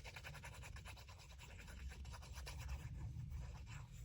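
Faint rubbing and scratching of paper being handled and pressed down by hand, a continuous quick dry texture.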